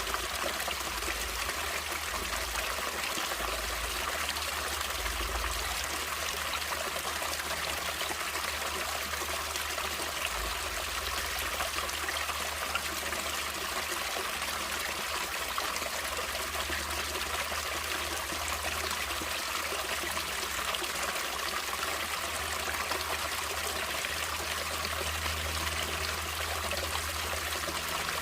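Natural running water flowing steadily, an even, bright rushing splash with no pauses or changes.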